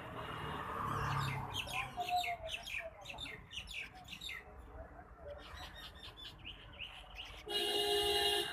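Small birds chirping in quick, repeated bursts of short high notes. Near the end comes a louder, steady pitched call or honk with a rich, buzzy tone, lasting under a second.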